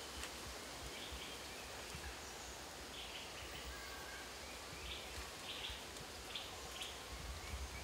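Quiet forest ambience with scattered short bird chirps, several in quick succession in the second half.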